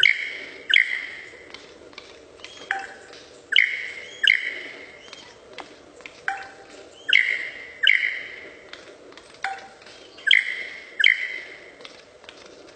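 A bird calling repeatedly with loud, ringing, clear-pitched notes. Each phrase is a short call that sweeps up from low, then two longer calls about three-quarters of a second apart, and the phrase repeats about every three and a half seconds.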